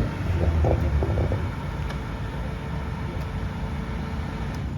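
Harley-Davidson V-Rod's V-twin engine running low and steady while the bike is ridden, with wind noise on the microphone; the sound eases a little after about a second and a half.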